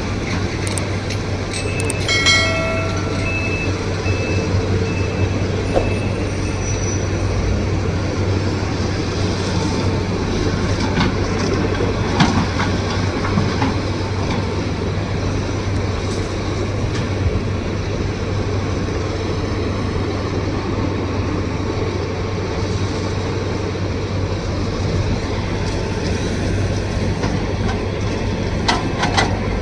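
Tata Hitachi 200 excavator's diesel engine running steadily under working load, with a brief metallic squeal about two seconds in and occasional clanks of the machine at work.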